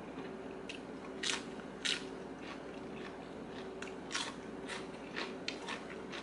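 Close-up eating sounds: a person chewing a mouthful of fresh leafy greens and squid salad, with several crisp crunches, the loudest two about one and two seconds in. A steady low hum runs underneath.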